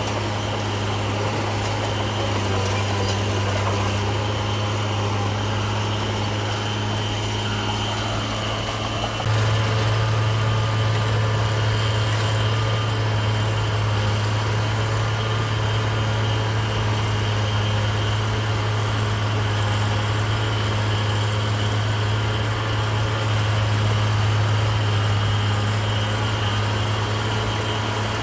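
Heavy diesel engine of earthmoving machinery running steadily with a deep hum and a thin high whine, stepping up suddenly in loudness about nine seconds in.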